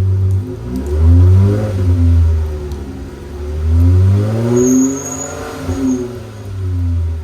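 2011 Dodge Charger SXT's 3.6-litre V6, exhaust with a cat delete and upgraded mufflers, revved twice from idle. Each time the pitch rises and falls back, and it settles to a steady idle near the end.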